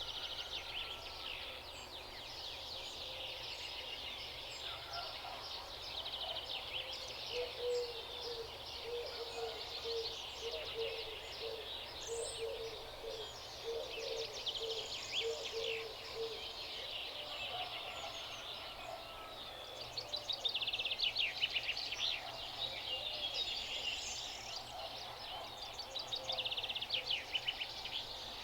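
Several wild birds chirping and trilling at once in a countryside dawn-chorus-like mix, with a run of short, low repeated notes in the middle and the loudest quick trills about two-thirds of the way in and again near the end.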